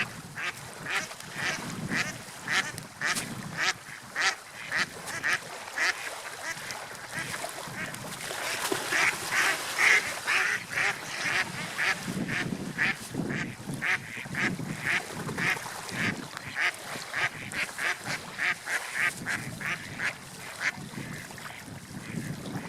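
A bird calling over and over in short, evenly spaced calls, about two a second, over a steady rush of wind and water.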